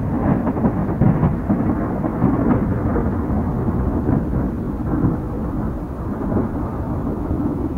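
Strong desert windstorm wind buffeting the microphone: a loud, continuous low rumbling rush that swells and eases in gusts.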